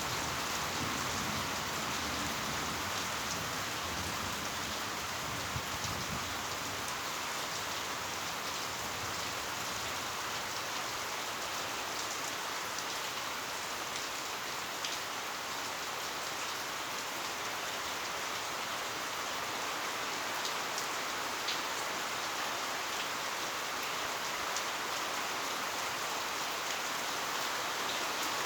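Heavy rain falling steadily, a continuous hiss with scattered sharper drop ticks; a low rumble underlies the first few seconds.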